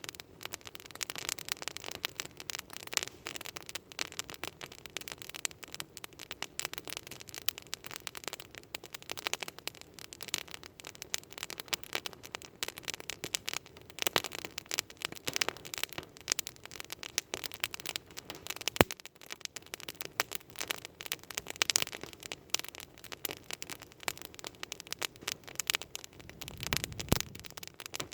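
Wood campfire crackling with dense, irregular snaps and pops, a few of them louder; a low rumble joins in near the end.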